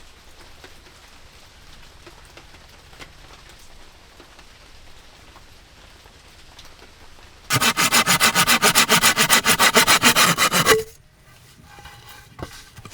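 A rapid, evenly repeating scraping or rasping, about a dozen strokes a second, starts loudly about seven and a half seconds in and cuts off sharply three seconds later. Before it there is only a faint steady hiss with a few light ticks.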